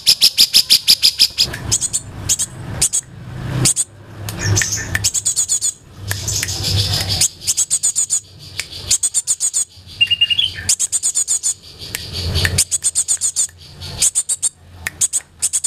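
Songbirds chirping in quick runs of short, high repeated notes with brief pauses between runs, a birdsong mix of the kind played to train cage birds; one short rising whistle comes about two-thirds of the way through.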